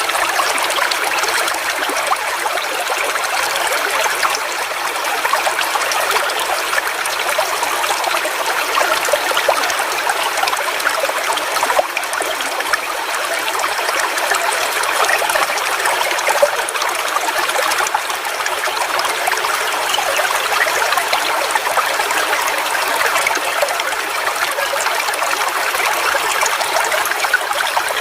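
Small forest waterfall: water splashing and running steadily, a busy hiss and patter with little deep rumble.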